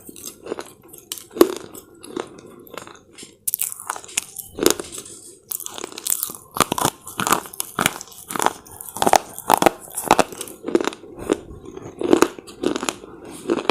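Close-up crunching and chewing of brittle slate chips, bite after bite at about one and a half crunches a second.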